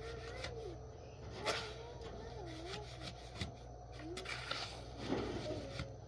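Irregular scraping and rubbing strokes over a steady low hum, with faint wavering voice-like tones in the background.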